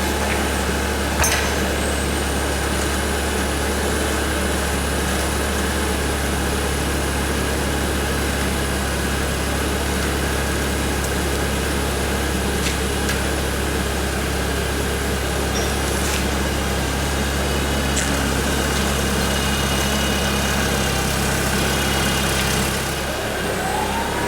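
Forklift engine running steadily at a low idle, with a faint high whine over much of it.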